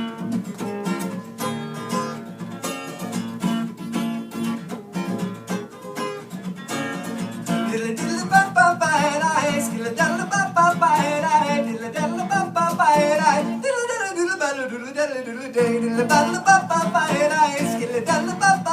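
Acoustic guitar played through an instrumental passage of a live song, with a wavering melody line joining about eight seconds in.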